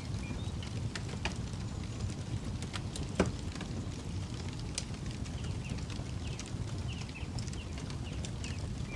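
Campfire burning, with a steady low rumble under scattered sharp crackles and pops from the burning wood, one much louder pop about three seconds in. Faint short high chirps come through in the second half.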